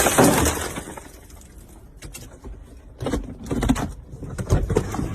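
Car and road noise with a loud, sudden burst of noise right at the start that dies away within a second, then a run of irregular knocks and rustling from about three seconds in.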